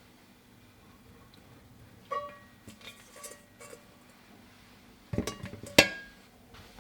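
A few clinks and knocks of tableware, each with a short ringing tone. There is one sharp clink about two seconds in and a few softer ones after it, then a louder cluster of knocks near the end.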